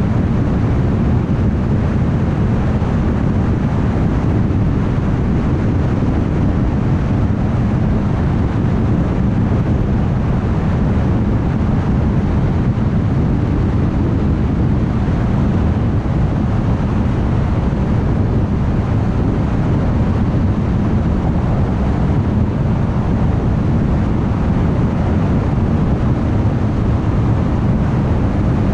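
Car driving at highway speed: a steady rumble of tyre and road noise with the engine, even throughout, heaviest in the low end.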